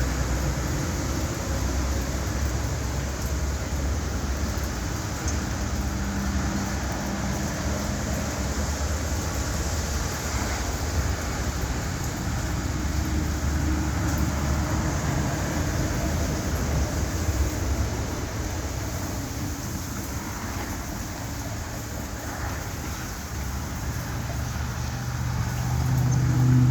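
Road traffic on a rain-wet street: a steady wash of tyre and engine noise with a low rumble, and a vehicle's engine growing louder near the end.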